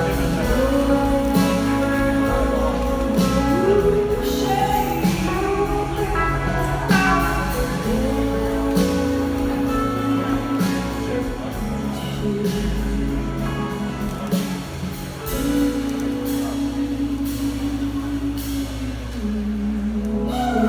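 Live blues-rock band playing, with long held guitar-like notes over a steady drum beat.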